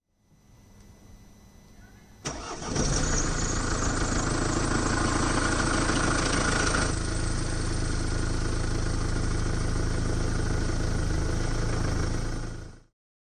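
Mercedes-Benz OM651 four-cylinder diesel cold-started: a faint hum, then a brief crank of the starter, and the engine catches about two and a half seconds in. It runs louder and harsher for the first four seconds or so, then settles to a steady idle before the sound cuts off near the end.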